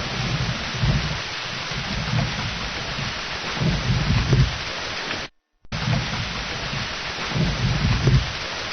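Steady heavy rain with low rumbles of thunder swelling and fading three times. The sound cuts out completely for a moment a little after five seconds in.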